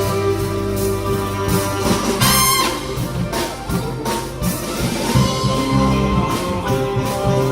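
Live big band playing jazz: brass and saxophones over a walking bass line and drums.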